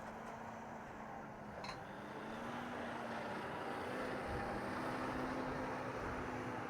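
John Deere tractor engine running steadily while hauling a fully loaded bale transtacker, its hum stepping up a little in pitch and growing louder as it goes. A single short click about a second and a half in.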